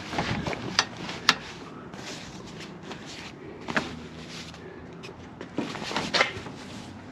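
Handling noise of the truck-bed tent's nylon straps and canvas being loosened: scattered rustles, scrapes and knocks, with one sharp click a little over a second in.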